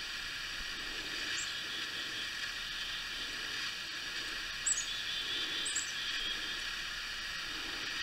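A few short, high bird chirps, about a second and a half in and twice more near the middle, over a steady hiss.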